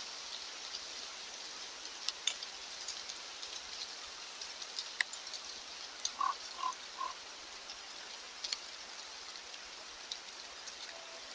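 Steady outdoor hiss with scattered short ticks like drops. Three short animal calls come one after another about six seconds in.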